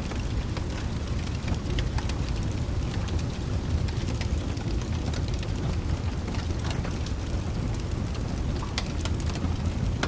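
Steady rain with a deep low rumble underneath, and scattered sharp crackles from a log fire.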